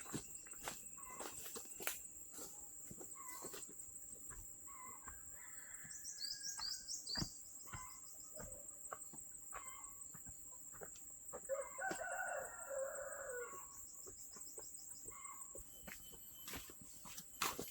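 A rooster crowing once, a call of about two seconds near two-thirds of the way through, over a steady high-pitched insect drone and scattered light clicks.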